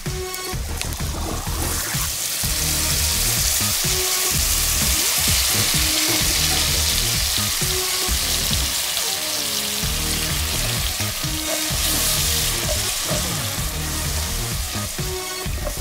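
Pork, onions and garlic sizzling in a hot pot as soy sauce is added; the sizzle swells about two seconds in and stays loud while the mixture is stirred. Quiet background music underneath.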